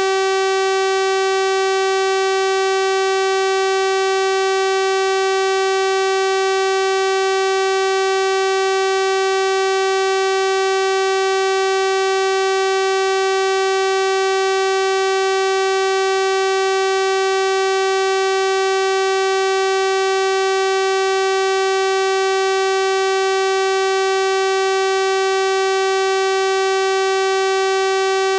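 A steady, unchanging 384 Hz sawtooth-wave tone: an electronic test tone with a rich, buzzy stack of harmonics.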